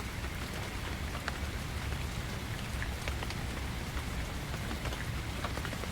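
Steady rainfall, an even hiss with scattered individual drops ticking through it.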